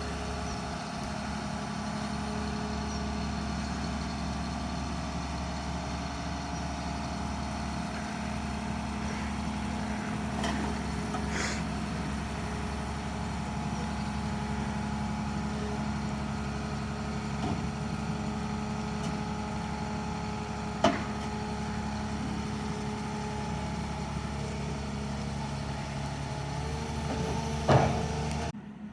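Heavy vehicle's engine running at a steady pitch, with a few sharp knocks and rattles over the top, the loudest about 21 and 28 seconds in.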